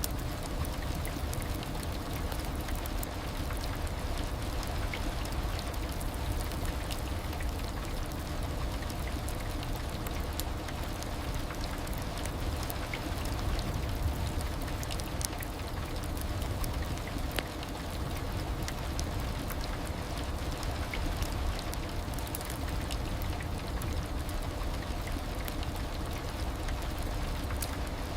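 Heavy rain falling steadily, an even hiss with many scattered drop ticks.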